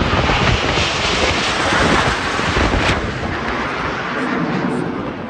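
Jet aircraft passing low overhead: a loud roar that builds to a peak two or three seconds in, then fades away.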